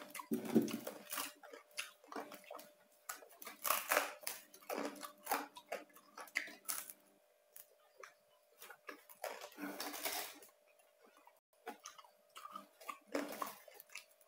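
Close-miked chewing of Bangka roast pork (saucu) with a crunchy outside: irregular crunches and wet mouth clicks, in bursts with short pauses between.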